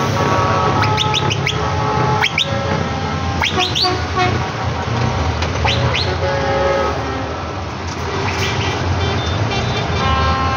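Trucks' horns sounding in overlapping blasts of different pitches over the steady rumble of engines running. Several short, sharp rising chirps cut in among them.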